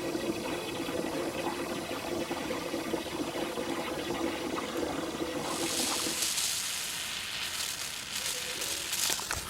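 A motor hums steadily until about six seconds in. From about five and a half seconds a loud, high hiss of air rushes out of the puncture in the flat, fluid-filled tractor tire.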